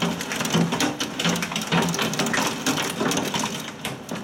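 Storm precipitation hitting hard surfaces: a dense, irregular clatter of sharp ticks.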